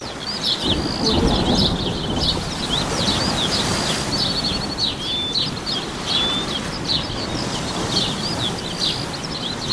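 Birdsong: a dense run of quick chirps and short whistles from several small birds, over a steady low background noise.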